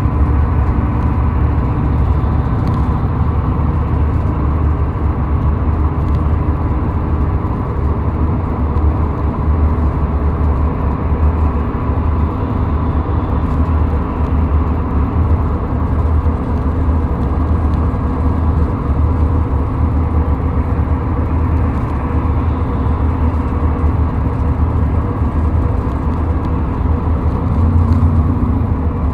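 Car driving at speed on a highway: steady road and engine noise with a low rumble, unbroken throughout.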